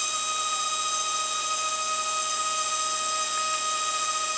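Blade mCP X BL2 micro RC helicopter's brushless main motor and rotor spinning at a steady speed: a constant high-pitched whine that holds one pitch.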